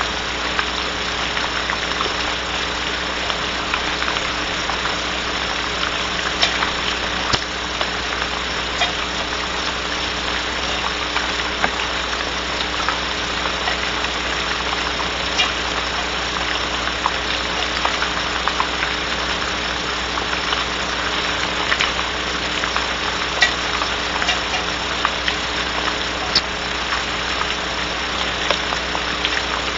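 Steady rain on a barn owl nest box, an even hiss with many small irregular drip clicks, over a constant low electrical hum from the nest camera's feed.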